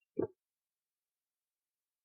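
Silence, broken only by one brief, faint sound just after the start.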